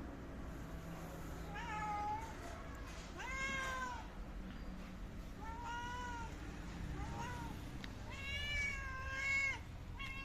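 Domestic cat meowing repeatedly: about six separate meows, each rising and then falling in pitch, with the longest, drawn-out one near the end.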